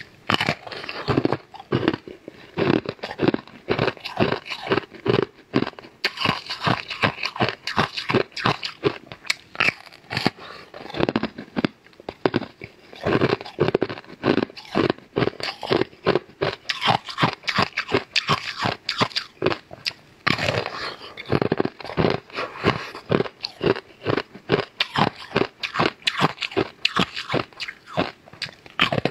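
A person biting and chewing food close to a clip-on microphone: dense, irregular crunchy and wet mouth clicks, with a few short lulls between bites.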